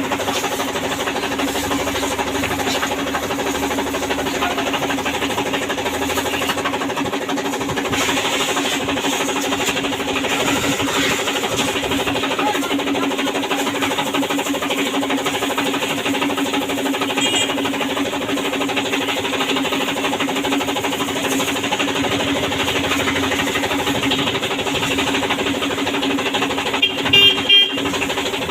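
Washing machine running with a steady motor hum and vibration. A brief clatter of a few sharp knocks near the end.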